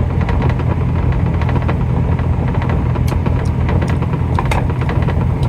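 Semi truck's diesel engine idling with a steady low drone, with a few light clicks of kitchen utensils about three and four and a half seconds in.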